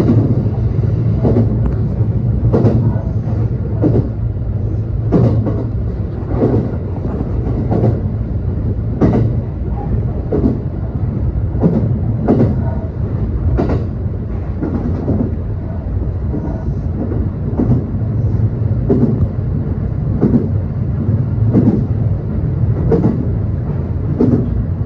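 Electric train running, heard from inside its front end: a steady low rumble with regular clacks of the wheels over rail joints, about one every second and a quarter.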